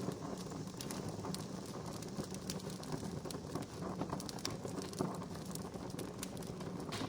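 Wood campfire crackling: irregular sharp pops and snaps over a steady low rumble of flames, with one louder pop about five seconds in.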